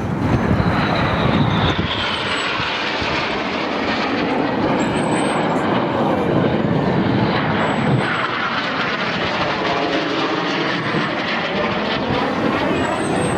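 Red Arrows BAE Hawk T1 jets flying past, a loud jet roar with a whine that falls in pitch near the start and swelling, swirling tones later as the aircraft sweep by.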